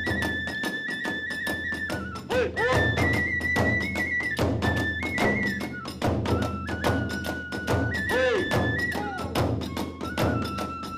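Kagura festival music: a high bamboo flute holding and stepping between long notes over rapid, steady drum beats, part of the hayashi accompaniment to a fight dance.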